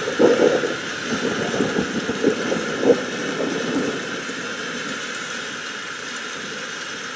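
Steady rain hiss, with a spell of crackling thunder over the first four seconds, loudest about three seconds in.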